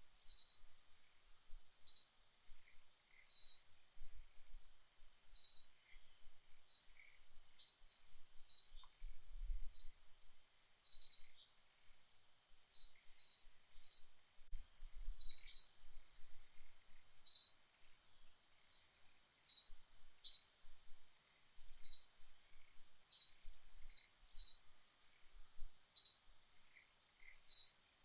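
A bird repeating short, high chirps at an uneven pace of about one a second, over a faint steady high-pitched hum.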